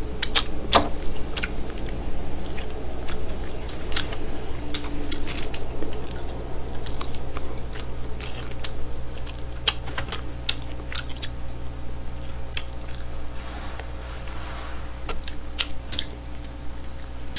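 Close-miked eating sounds: smoked chicken picked apart with the fingers and chewed, with irregular sharp clicks and smacks scattered throughout, over a steady low hum.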